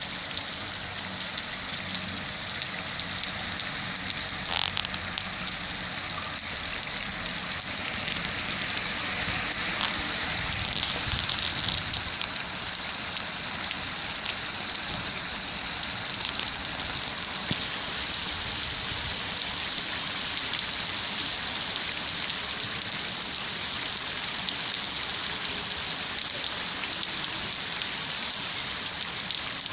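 Steady rain falling and pattering on surfaces, a dense even hiss of drops.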